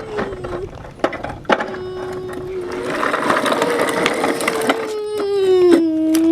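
Toy garbage truck play: a whining, engine-like tone that holds and then glides down in pitch, with a few sharp plastic clicks and a hiss in the middle.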